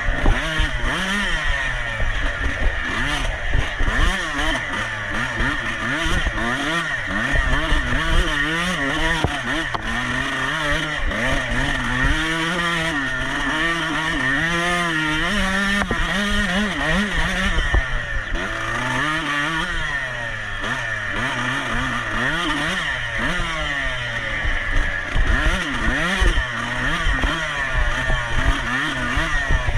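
Off-road motorcycle engine revving up and down over and over as the throttle is worked, its pitch rising and falling every second or two, over low thumping rumble.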